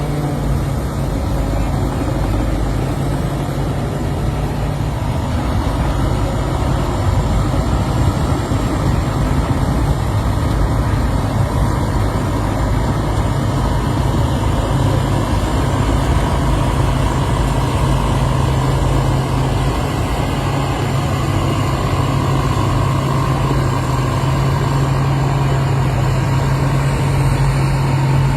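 Rice combine harvester's engine running steadily with a constant low drone.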